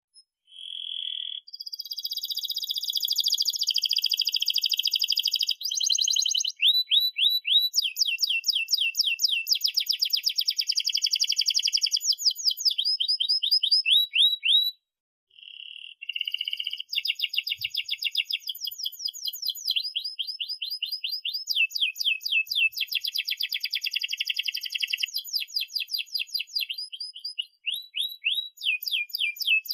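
Domestic canary singing a long, continuous song of fast rolling trills and repeated chirps, high-pitched, with a short break about halfway through.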